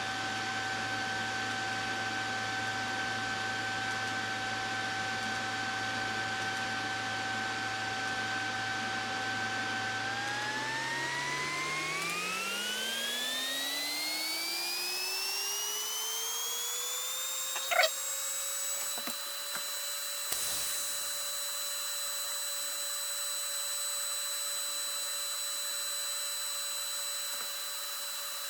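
TIG welder arc on stainless steel pipe: a steady electrical whine made of several pitches together. About a third of the way in it rises smoothly over several seconds to a higher pitch and holds there. A single sharp crack comes near two-thirds of the way through.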